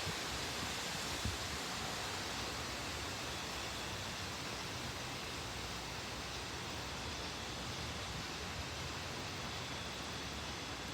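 Storm wind blowing steadily, a constant rushing noise through the night air.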